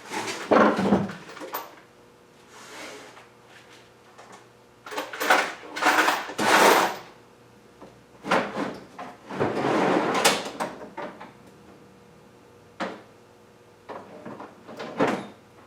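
Rummaging through a toolbox drawer of sockets and tools: metal clattering and sliding in three bouts, then a few sharp clicks near the end.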